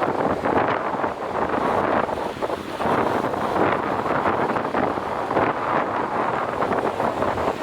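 Strong wind gusting across the microphone, with waves and surf beneath it.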